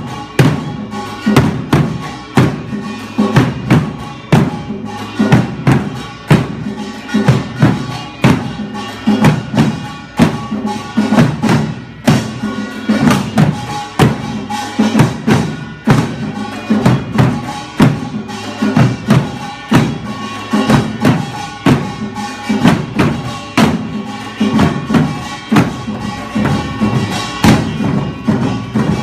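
Korean buk barrel drums beaten in a pungmul drum dance: many loud strikes in a fast, driving rhythm, with ringing tones sounding above the drumbeats.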